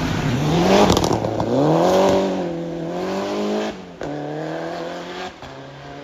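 Rally car accelerating hard. The engine note climbs and drops back at gear changes, about a second in and again near four seconds, loudest around the first two seconds, then fades as the car pulls away.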